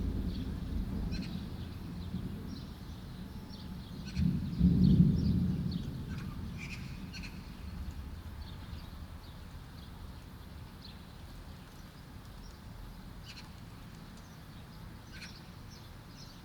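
Thunder rumbling low, swelling into a louder roll about four seconds in and then dying away. Small birds chirp throughout.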